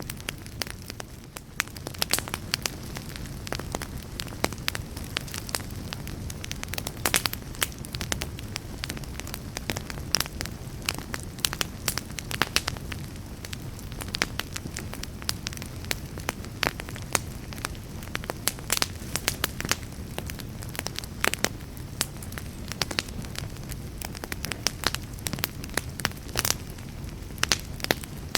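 Wood fire in a fireplace burning with a steady low roar of flames and frequent, irregular sharp crackles and pops.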